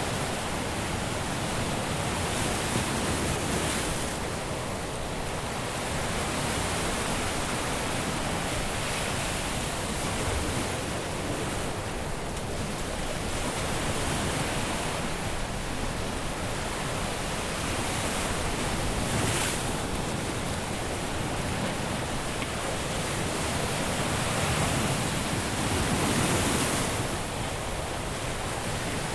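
Caribbean surf breaking on a beach: a continuous wash of waves that swells every few seconds as each one comes in.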